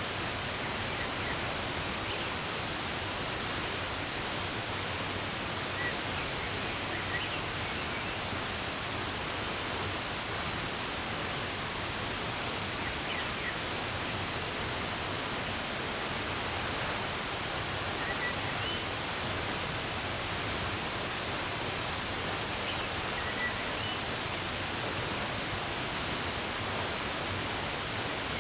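Steady rush of running water, with faint short bird chirps every few seconds.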